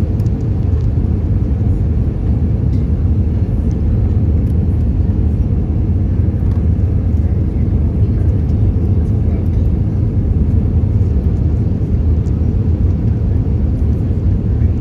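Steady low roar inside the cabin of an Airbus A320 in flight: jet engine and airflow noise heard from a window seat, even in level throughout.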